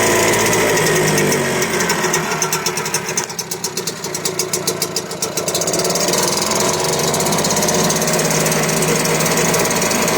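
1971 British Seagull Silver Century outboard, a single-cylinder two-stroke, running in a test barrel. About a second and a half in it is throttled back to a slow, lumpy idle where each firing stroke can be heard. Around six seconds in it picks up again to its earlier steady speed.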